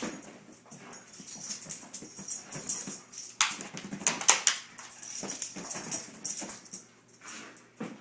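Dog snuffling and rustling as it goes after a stuffed toy, in irregular bursts, with one louder rush of noise about three and a half seconds in.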